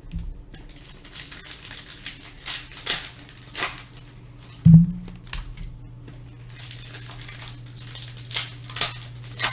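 Foil card-pack wrapper crinkling and tearing as it is pulled open, with cards being handled. There is a thump about halfway through, after which a low steady hum runs underneath.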